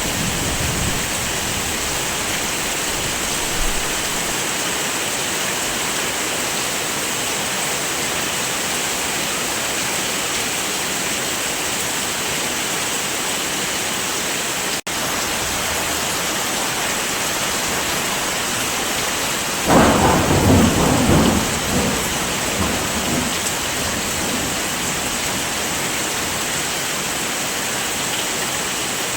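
Steady heavy rain, an even hiss, with a rumble of thunder lasting about two seconds roughly two-thirds of the way through. The sound cuts out for an instant about halfway.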